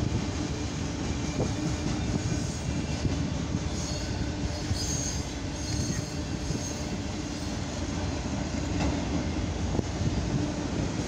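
Freight train's autorack cars rolling past on jointed steel wheels: a steady rumble of wheels on rail. Faint high wheel squeal comes in for a few seconds about four seconds in.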